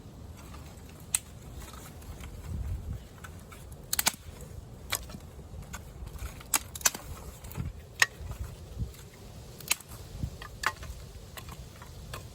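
Firewood being broken and cut up by hand: a dozen or so sharp, irregular cracks and knocks, with a low rumble underneath.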